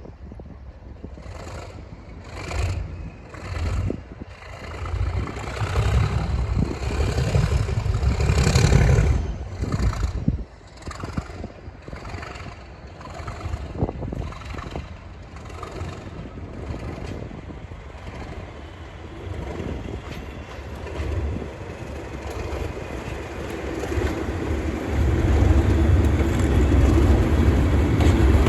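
Class 37 diesel locomotives running hard at speed, with regular clicks like wheels passing over rail joints through the first half. The low engine drone grows louder near the end.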